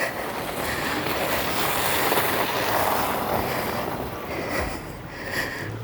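A car passing on a slush-covered street, its tyres hissing and spraying through the wet snow; the rush swells and fades within a few seconds.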